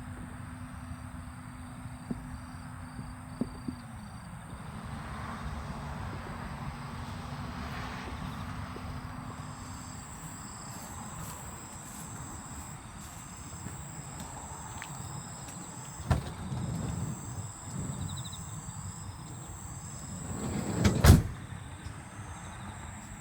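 A van's sliding side door rolling shut and closing with a loud thud about 21 seconds in, after a few lighter knocks and clicks over a steady background hiss.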